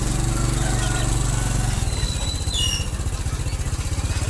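A small engine running steadily with a low pulsing hum. A few short, high chirps from caged birds come in about two and a half seconds in.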